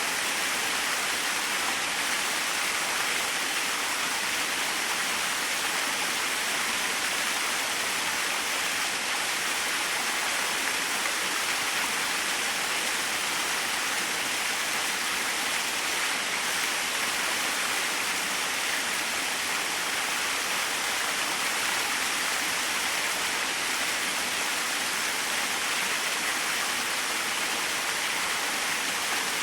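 Small waterfall: water falling and splashing in a steady rush, even and unchanging.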